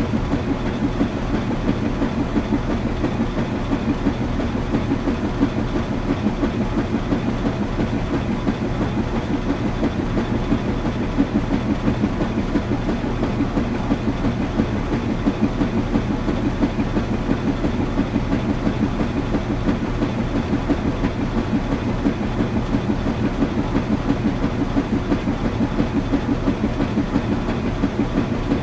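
Washing machine running steadily: a low hum under a fast, even pulsing.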